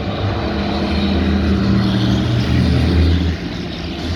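Racing truck diesel engines running loud and steady, growing louder and then dropping off suddenly a little after three seconds in.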